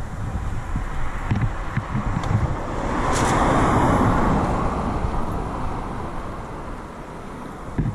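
Wind buffeting the microphone with low, uneven rumbles, while a passing vehicle swells to a rush of tyre and road noise about three to four seconds in and then fades away.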